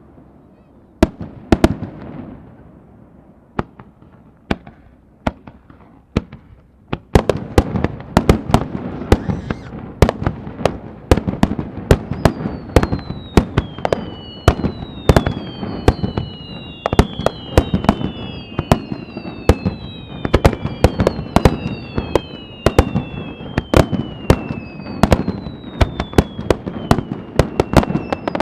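Fireworks display: sharp bangs of bursting shells, a few at first, then coming thick and fast from about seven seconds in. From about twelve seconds in, many falling whistles overlap the bangs.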